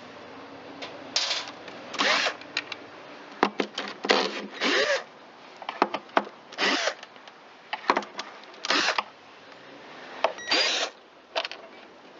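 A cordless drill/driver running in short bursts, about seven in all, backing screws out of a backpack blower's plastic housing, with small clicks of the screws and tool between bursts.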